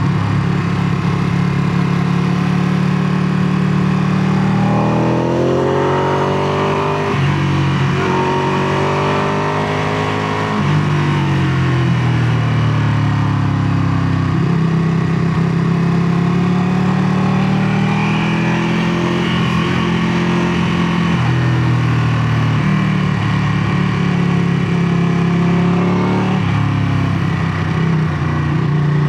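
2017 Ducati Panigale 959's Superquadro V-twin engine running, heard through its exhaust. Its pitch climbs twice and drops sharply each time, about a third of the way in, then holds fairly steady with a few smaller steps up and down.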